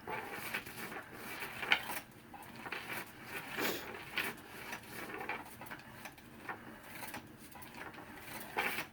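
A kitten playing with a toy on the floor: scattered light taps, knocks and scuffs, with a slightly louder knock about two seconds in and another near the end.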